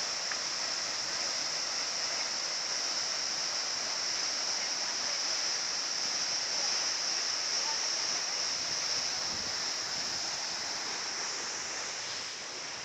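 Steady rush of a mountain waterfall's falling water, even and unbroken.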